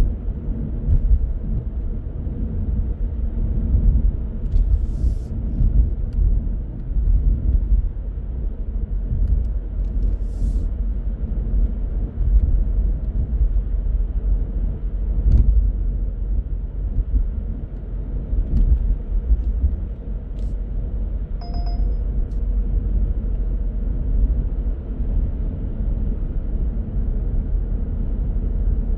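A car driving, its steady low road and engine rumble carrying on throughout, with a few light clicks and a brief high tone about three-quarters of the way through.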